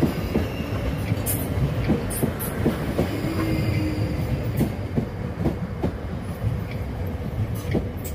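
South Western Railway Class 458 electric multiple unit rolling past at moderate speed: a steady low rumble with the wheels clicking over rail joints about twice a second.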